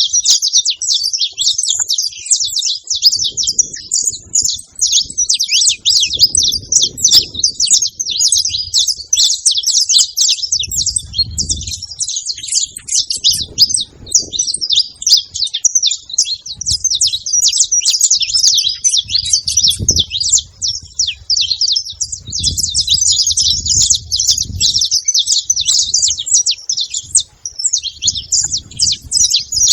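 Several saffron finches chirping and singing together, a dense, continuous stream of rapid high notes overlapping each other.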